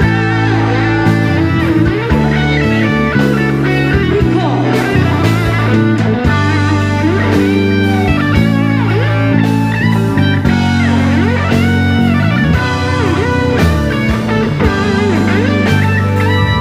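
Live rock band playing: an electric guitar lead full of string bends and vibrato over bass and drums.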